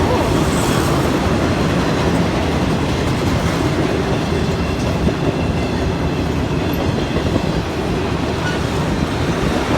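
Norfolk Southern welded rail train's cars, loaded with long strings of continuous welded rail, rolling past with a steady rumble.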